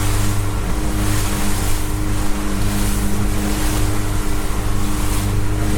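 A motorboat's engine running at a steady pitch as the boat travels through rough water, with wind and water rushing over it.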